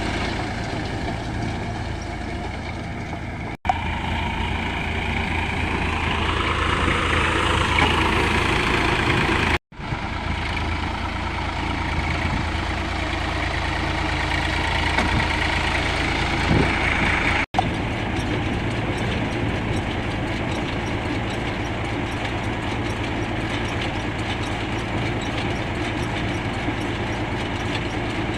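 Farm tractor's diesel engine running steadily. The sound cuts out briefly three times.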